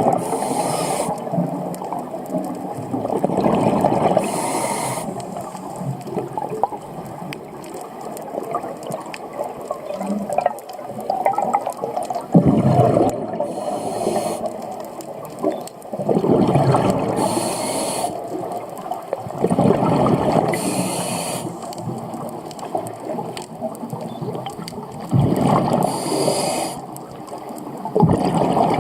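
Scuba regulator breathing underwater: a short hiss on each inhale and a rush of bubbles on each exhale, about one breath every four to five seconds.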